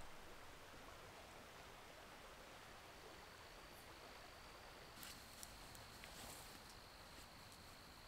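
Faint, steady hiss of rain falling on the surface of a pond, with a thin high steady tone underneath and a few light ticks from about five seconds in.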